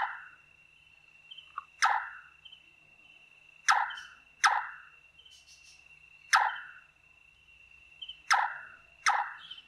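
Large-tailed nightjar calling its evening call: short, hollow knocking notes, about seven of them at uneven gaps of one to two seconds. A steady high tone runs beneath.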